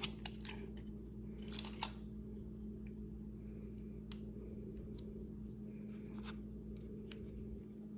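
Light clicks and taps of small parts being handled as a battery is fitted into a red dot sight: a cluster of them near the start, then a few single sharp clicks, over a steady low hum.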